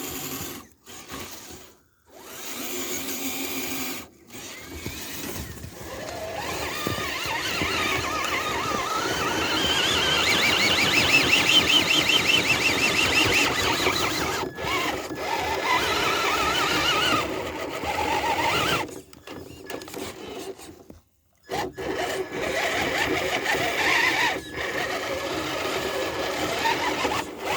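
Electric motors and geared drivetrains of 1/10-scale RC crawler trucks whining under throttle while climbing, the pitch wavering up and down as the throttle is worked. The whine cuts out briefly a few times when the throttle is let off.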